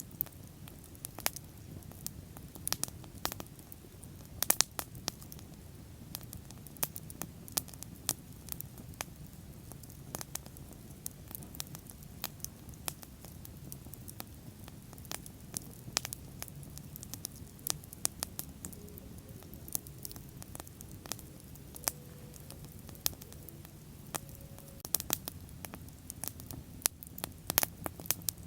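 Wood bonfire burning: irregular sharp crackles and occasional louder pops over a steady low rush of flames.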